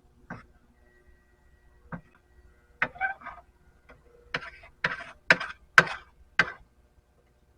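A string of sharp metal clinks and knocks from lead-casting tools, a few scattered at first, then a quicker run about half a second apart before stopping.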